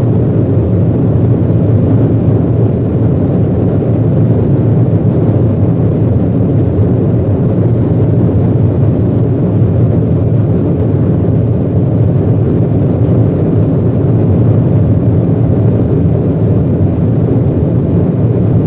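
Steady cabin noise inside an Embraer 175 airliner: the deep, even drone of its CF34 turbofan engines and the rushing airflow, with no change in pitch or level.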